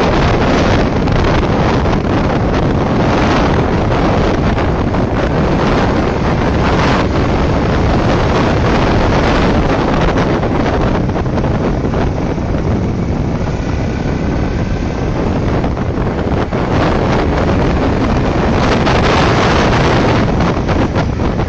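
Loud wind buffeting the microphone on a moving BMW motorcycle and sidecar, with the bike's engine running underneath. A faint engine note rises briefly about two-thirds of the way through.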